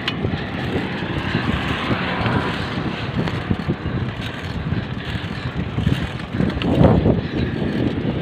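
Wind buffeting the microphone, with rumbling road noise while riding a bicycle. The rumble swells louder for a moment about seven seconds in.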